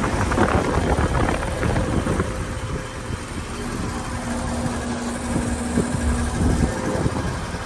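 Outdoor air-conditioner condensing units running: a steady electrical hum from the compressor under fan noise. Irregular low knocks and rustles are heard over it, mostly in the first few seconds.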